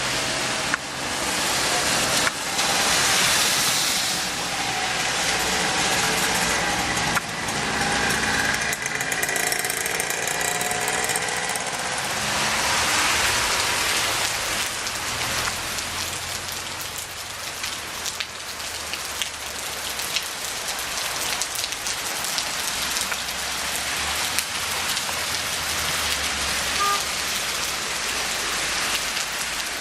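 Heavy rain falling steadily. A motor vehicle passes through it about a quarter of the way in, its engine pitch sliding over a few seconds.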